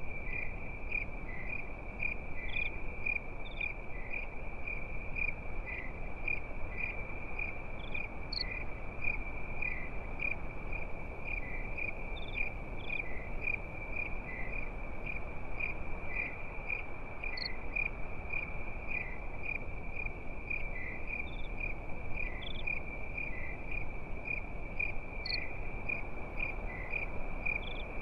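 Crickets chirping at night: a steady high trill pulsing in a regular rhythm, with a brief higher chirp every few seconds over a soft steady hiss.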